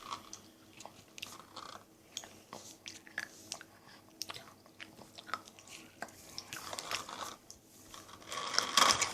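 A child chewing and biting food, with irregular small crunches and clicks that get louder near the end.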